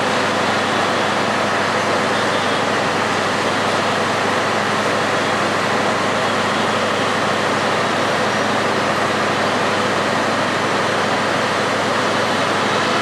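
Steady, loud rolling rumble of the Upaban Express passenger train's coaches moving slowly along the tracks.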